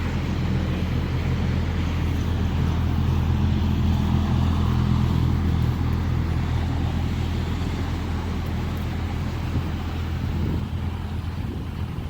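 2019 Audi S5's turbocharged V6 engine running with a steady low hum. It swells over the first few seconds, then slowly fades.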